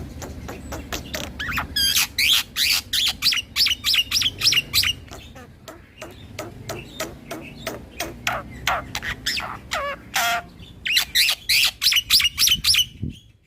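Black-winged starling (jalak putih) singing. It gives two loud spells of rapid, harsh chattering and whistled notes, one starting about two seconds in and one near the end, with softer ticking notes between them.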